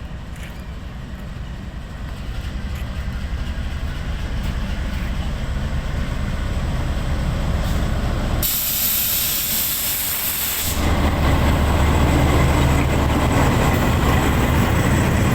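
GEU-20 diesel-electric locomotive running as it departs, its low engine rumble growing louder over the first several seconds. About eight seconds in, a loud hiss lasts about two seconds, then the engine rumble returns louder than before.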